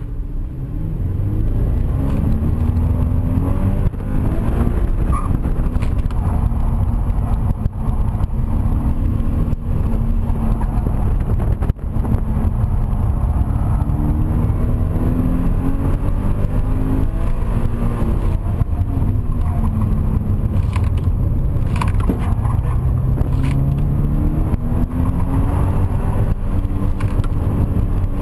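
Subaru BRZ's 2.0-litre flat-four engine heard from inside the cabin, revving up and falling back again and again as the car accelerates and brakes between corners of an autocross course.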